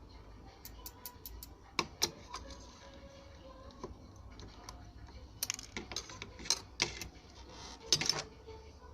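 Irregular small clicks and taps of soldering tools against an oscilloscope's circuit board and chassis, thickening into a quick cluster over the last few seconds.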